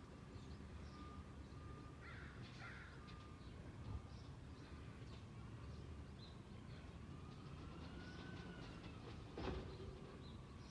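Faint outdoor ambience: birds calling, with harsh crow-like caws, over a low steady rumble. A single knock near the end.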